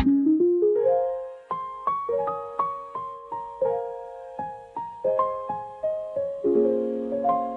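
Background music: a soft electric-piano melody of plucked-sounding notes, each fading quickly, with a short rising run of notes about a second in.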